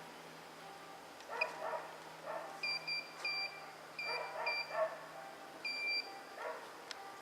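A metal detector's high electronic beeps, several short ones in quick succession and then a longer tone, as it sounds over a target being dug out of hard ground. Short yelping calls sound in the background between the beeps.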